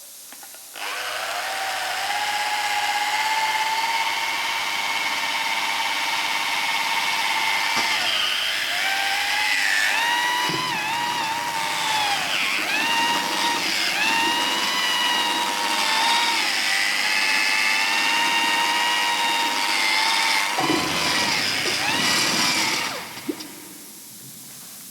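Power tool motor starting up and running with a high whine. After a steady stretch, its pitch repeatedly sags and recovers as it works under load, until it shuts off near the end.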